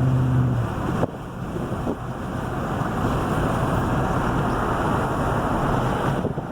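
Steady rushing wind noise buffeting the microphone of a moving vehicle, with a low engine hum that stops about half a second in.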